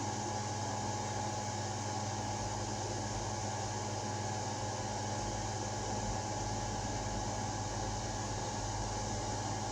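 Steady machine hum with an even hiss underneath, holding one level throughout; no firework bangs are heard.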